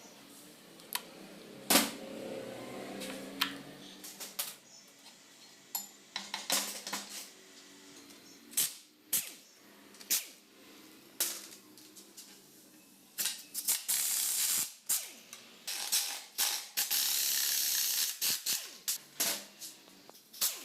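Metal hand tools clicking and knocking against scooter engine parts as the engine is taken apart, with ratchet-like clicks. Two loud hissing bursts, each about a second and a half long, come a little past the middle.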